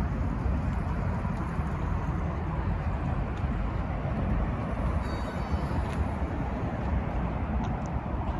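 Steady low rumble of city traffic going by, a continuous noise with no distinct events.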